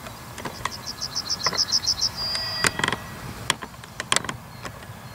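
A songbird singing a fast run of about ten repeated high notes that ends in a short held note, with scattered short chirps around it.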